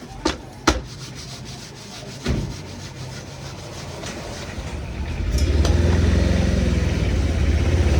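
A few sharp knocks, then from about five seconds in a loud, low, steady motor rumble that holds.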